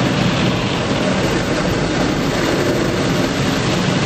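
Automatic car wash machinery working over the car, heard from inside the cabin: a steady rumble with a hiss of water across the body.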